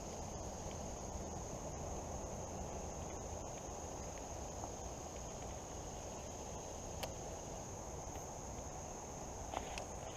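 Steady high-pitched chorus of crickets over the low, even rush of fast-flowing creek water, with a few faint clicks near the end.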